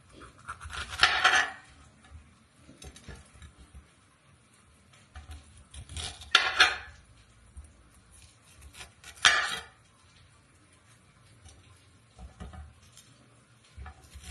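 Kitchen utensils and dishes clattering as they are handled, with louder clatters about a second in, around six seconds and around nine seconds, and lighter knocks between.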